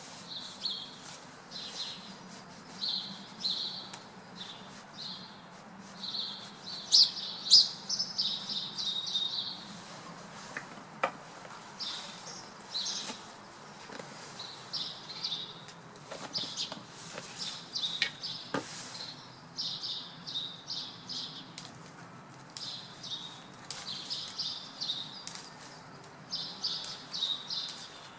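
Small birds perched in a tree chirping in quick, repeated bursts of short high notes, with a few sharp clicks among them.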